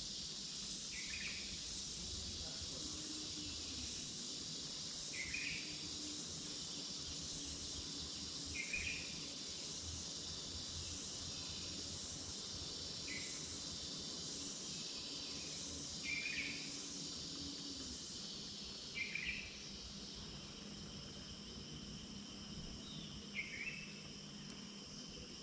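Forest ambience: a steady, high insect chorus of crickets, with a bird giving a short call about every three to four seconds, seven times in all.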